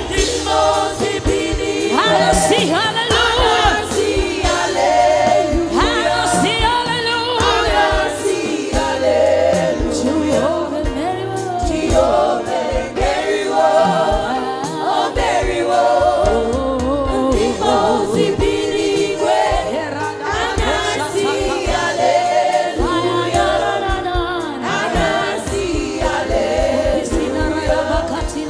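Gospel worship song: several voices singing together over instrumental accompaniment with a steady beat.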